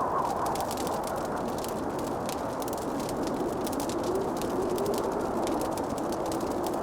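Fireplace fire crackling, with many small sharp pops over a steady rushing noise. A faint wavering tone drifts up and down beneath it.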